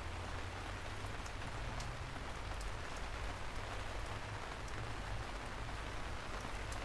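Steady rainfall, an even hiss with scattered sharp ticks of single drops and a low rumble underneath.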